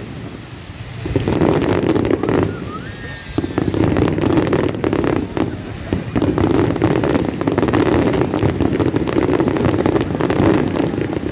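Large fireworks display: shells bursting overhead in rapid, dense succession, a near-continuous run of bangs and crackling, picking up about a second in after a brief lull.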